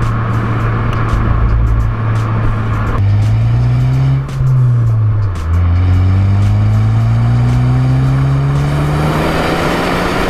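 Ford Focus ST's turbocharged four-cylinder engine under way, its note holding steady, rising briefly, dropping twice as in a gear change, then climbing steadily as the car accelerates.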